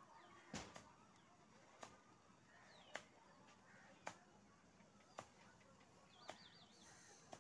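Near silence with faint bird calls: a short falling whistle, then a quick warbling trill near the end. Faint sharp clicks come about once a second throughout.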